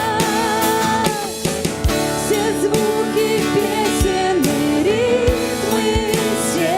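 Contemporary worship band music with drum kit and guitar. A long held note with vibrato ends about a second in, and a melody carries on over steady drum strokes.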